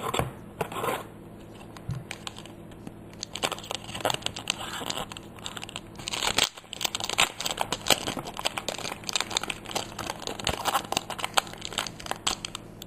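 Foil wrapper of a Pokémon trading card booster pack crinkling and tearing as it is opened, a dense run of crackles from about three seconds in.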